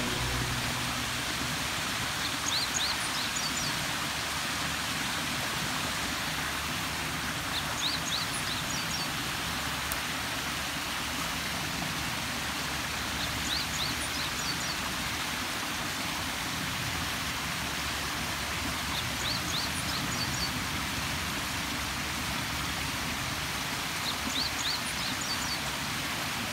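Steady hiss of water, like rain or a stream, with a bird repeating a short, high song phrase about every five and a half seconds.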